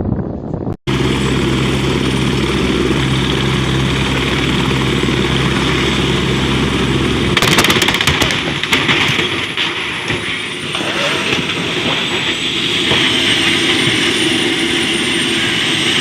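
Helicopter running with a steady low drone. About seven seconds in, the sound changes abruptly: a few sharp cracks, then a steady turbine whine with a thin high whistle.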